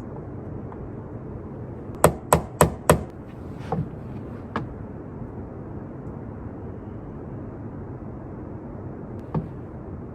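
Four quick, sharp knocks in a row about two seconds in, then a few fainter taps and one more knock near the end, over a steady low rumble.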